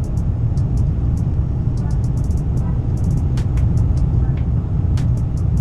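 Steady low rumble of an ICE high-speed train running at speed, heard from inside the carriage, with light high ticks and a couple of sharper clicks.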